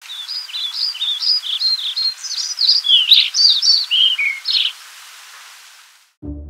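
A songbird singing a quick run of varied, sliding chirps for about four and a half seconds over a faint hiss that fades away. Plucked-string music starts just before the end.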